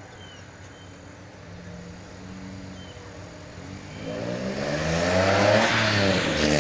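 An engine passes close by: it grows loud about four seconds in, its pitch rising as it approaches and dropping as it moves away, with a hiss alongside.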